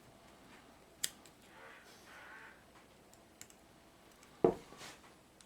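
Small handling noises of a model locomotive and its parts on a workbench: a sharp click about a second in, a faint tick, and a louder knock near the end.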